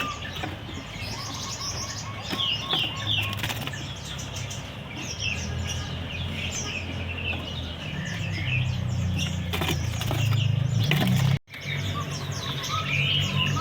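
Many caged songbirds chirping and trilling together, with some wing fluttering. A low steady hum runs underneath from about five seconds in.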